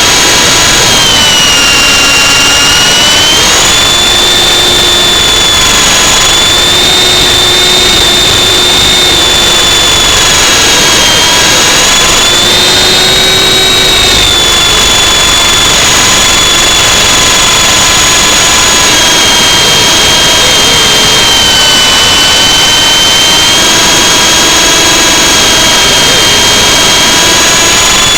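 High electric motor and rotor whine of a radio-controlled model aircraft in flight, its pitch dipping and rising every few seconds with throttle changes as it fights strong wind, over a low rumble of wind buffeting.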